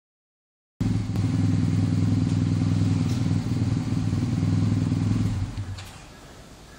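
A steady, loud low engine hum that starts a little under a second in and dies away about five and a half seconds in, leaving a quiet background.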